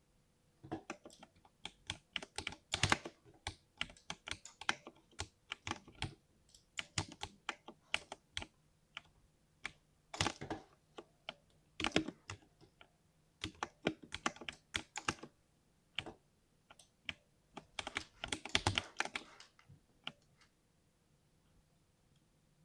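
60% mechanical keyboard being typed on, with a smooth "thock": irregular bursts of rapid key presses with short pauses between. The typing stops about three seconds before the end.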